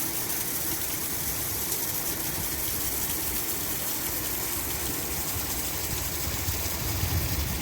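Steady rushing noise of heavy rain and running water, with a low rumble building near the end.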